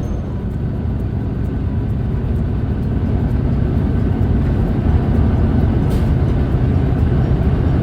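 Steady low rumble of a car being driven: engine and tyre noise on the road.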